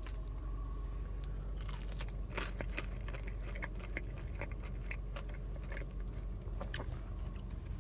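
Close-up chewing of a crispy, breaded fried chicken tender dipped in sauce, with scattered crunches and mouth clicks over a steady low hum.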